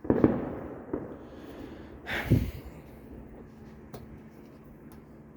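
Fireworks going off: a sharp loud bang right at the start that trails off, a smaller pop about a second in, and another loud bang a little after two seconds, followed by a few faint pops.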